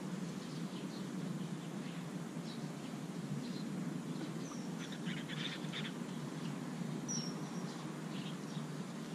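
Outdoor background with a steady low rumble and a few faint, short bird chirps scattered through it.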